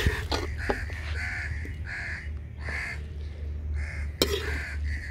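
A bird calling over and over in short repeated calls, roughly one or two a second with brief gaps, over a low steady hum. A few sharp clicks of a metal serving spoon against the pot near the start and about four seconds in.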